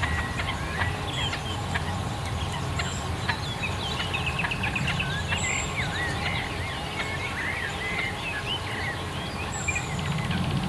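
Several small birds singing together, with overlapping chirps, trills and whistled glides, and a thin high note repeating every two to three seconds, over a steady low rumble.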